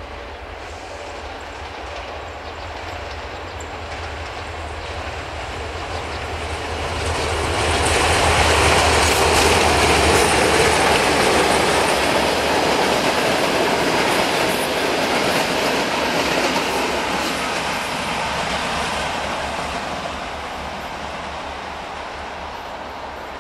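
Diesel-hauled passenger train approaching and passing close by: a low engine hum grows, wheel-and-rail noise peaks with rapid clicking as the coaches go past, then fades as the train moves away.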